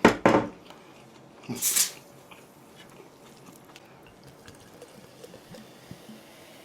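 A person chewing a mouthful of kebab close to the microphone, with faint wet smacking clicks. There are a couple of loud short sounds right at the start and a brief hiss about a second and a half in.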